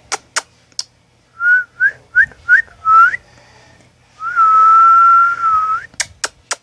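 A person whistling to get a dog's attention: five short rising whistles, then one long steady whistle that turns up at the end. Sharp clicks come just before and after the whistles.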